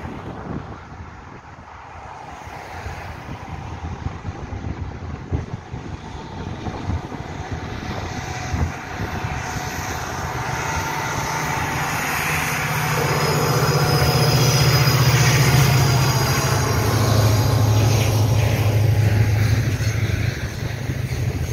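Korail 7400-series diesel locomotive hauling a container freight train approaches and passes close by. Its engine's steady low drone grows louder through the first half and is loudest past the middle. The rolling rumble of the container wagons on the rails follows it.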